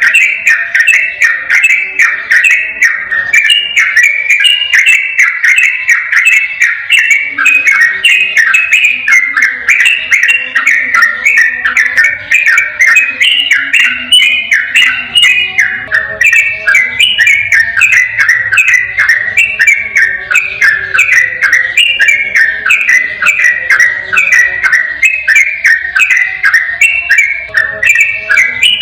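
Yellow-vented bulbul (trucukan) singing a long, rapid run of short bubbling notes without a break, the fast continuous 'ropel' style of song.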